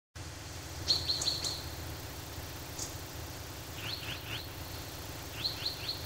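Songbirds chirping: quick runs of three or four short rising notes, repeated a few times, with a single higher note between them, over a steady low background noise.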